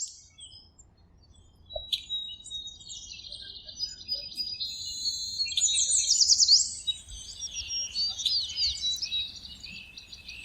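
Songbirds chirping and singing: high trills and quick sweeping notes overlapping one another, loudest about six seconds in.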